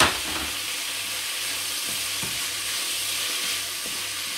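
Rice and onions with freshly added soy sauce sizzling steadily in a hot frying pan while being stirred with a spatula. A sharp knock comes right at the start, and a few light taps follow.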